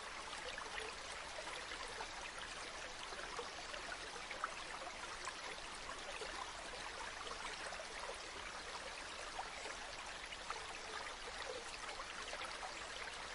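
River water flowing steadily, a continuous rushing babble with many small splashes and trickles.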